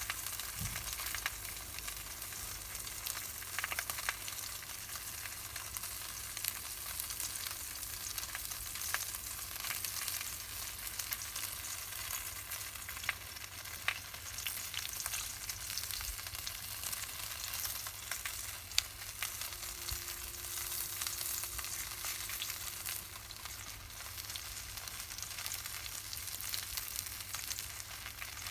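Campfire with pork roasting over it: a steady sizzling hiss with many small, irregular crackles.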